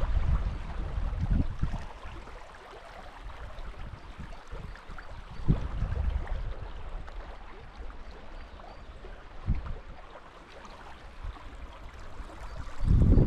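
Small stream running over its bed as a steady, even rush of water. Wind buffets the microphone at the start and again near the end, and a few short low thumps come through in between.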